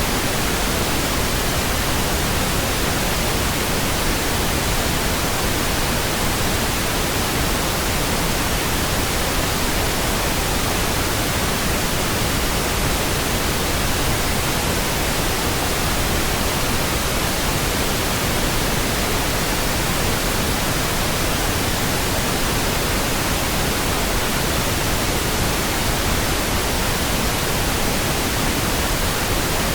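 Steady, unchanging pink noise: an even hiss spread across all pitches, with no lines or events.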